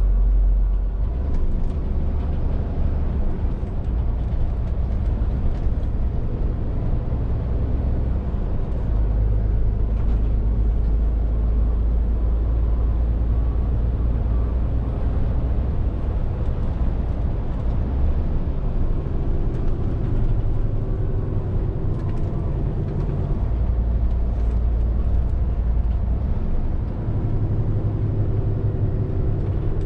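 Scania R450 lorry's 13-litre straight-six diesel engine running steadily under way, over tyre and road noise. The low engine note shifts up and down every several seconds.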